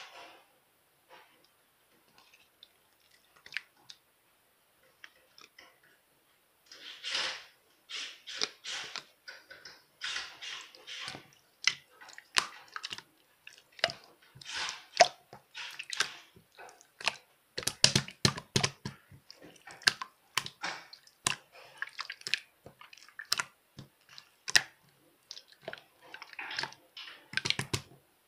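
Slime being kneaded and squeezed by hand, with wet squishing and sharp sticky pops and clicks. Sparse small clicks at first, then steady, busier squishing and popping from about seven seconds in.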